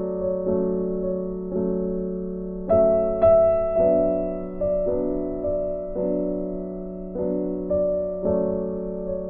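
Gentle background piano music: a slow melody of sustained notes over a held low note.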